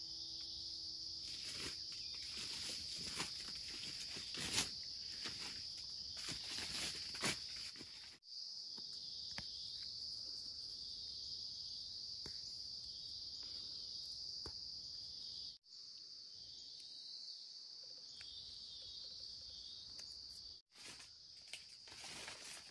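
Steady high-pitched chorus of insects, with scattered clicks and knocks of handling or footsteps during the first third, broken by a few abrupt cuts.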